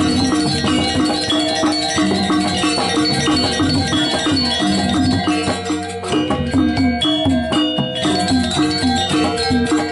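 Balinese gamelan playing a fast, even rhythm: metal gong-chimes and metallophones struck in rapid repeating figures, with clashing cymbal strokes over them.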